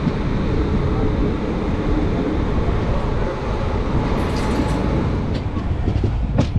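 Express passenger train running on the rails with a steady rumble, and sharp wheel clicks over rail joints starting near the end.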